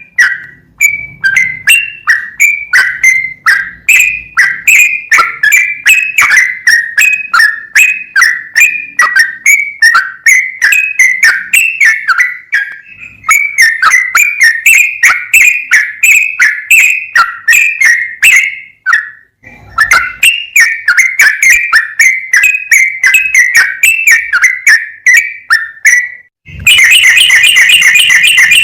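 Yellow-vented bulbul (trucukan) singing: a fast, unbroken run of short whistled notes, a few a second, with a short pause about two-thirds through. Near the end it breaks into a dense, continuous buzzy trill.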